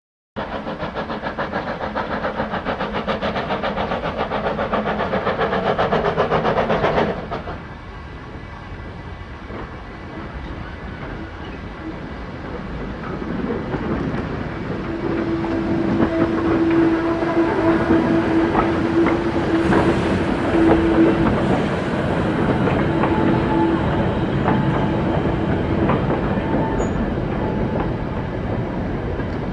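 Locomotive-hauled train on a heritage railway: a fast-pulsing running sound cuts off abruptly about seven seconds in. A train then runs on with rising rumble, and a steady single tone is held for several seconds in the middle.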